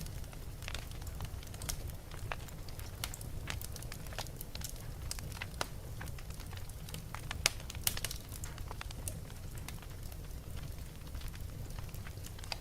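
Wood fire burning in a fireplace: irregular crackles and sharp pops over a steady low rumble, with a couple of louder pops about halfway through.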